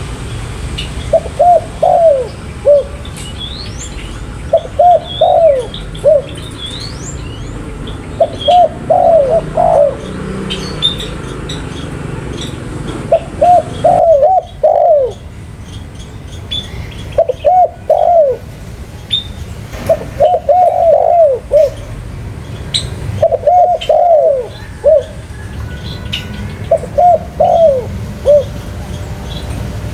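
Spotted dove cooing: repeated phrases of three or four coos, one phrase every two to three seconds. Faint chirps of small birds sound higher up between the phrases.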